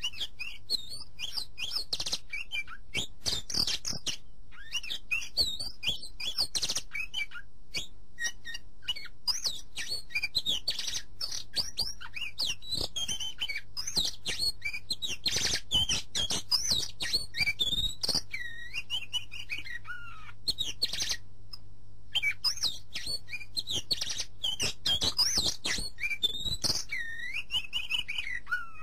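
Birds chirping and singing in a continuous stream of quick whistled notes and glides, with a short lull about three-quarters of the way through.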